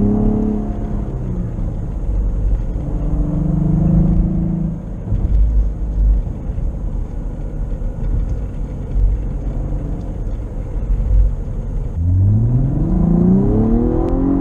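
Cadillac ATS-V's twin-turbo 3.6-litre V6 on the move. The engine note falls away at the start and holds steady for a couple of seconds. Through the middle it runs low under road rumble, then revs up in a strong rising pull near the end.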